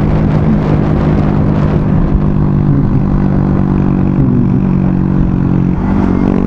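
Motorcycle engine running steadily at cruising speed during a ride, with wind noise on the microphone; the engine note shifts slightly near the end.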